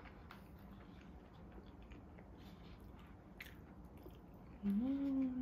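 A person chewing and eating with a fork from a bowl, with soft mouth sounds and a few small clicks of the fork. Near the end comes a short, louder hummed "mm" that rises and then holds for about a second.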